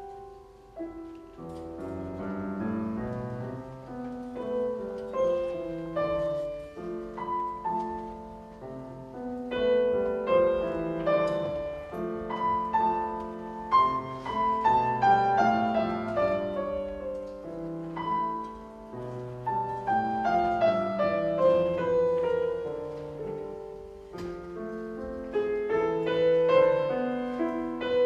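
Piano playing with a chamber string orchestra in a classical piano concerto: held low notes under the piano, with two long descending piano runs in the middle.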